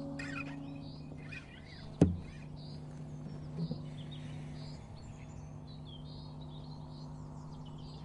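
Birds chirping over the fading ring of guitar strings after the last strum, with one sharp knock about two seconds in, the loudest sound.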